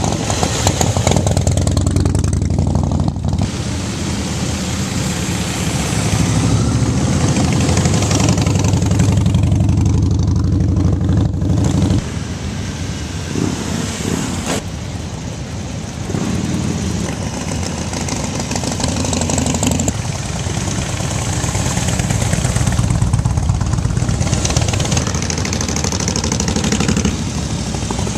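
Motorcycle engines running, the low engine note swelling and easing as they rev and settle back.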